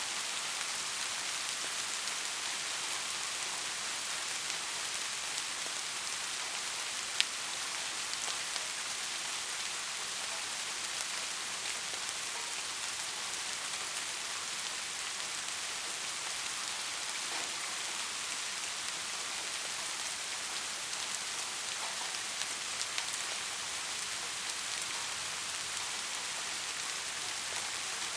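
Steady rain falling, an even hiss with scattered drop ticks, one sharper tick about seven seconds in.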